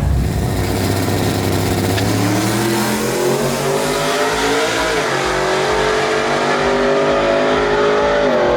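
A vehicle engine accelerating hard, its pitch climbing steadily. There is a brief drop about halfway through, like a gear shift, then another drop near the end before it carries on.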